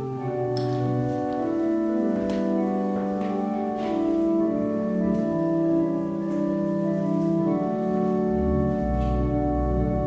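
Church organ playing slow held chords that change every second or two, with a deep bass note coming in near the end.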